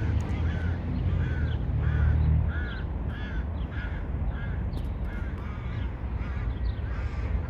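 A crow cawing over and over, about two short calls a second, over a low rumble that is heaviest for the first couple of seconds.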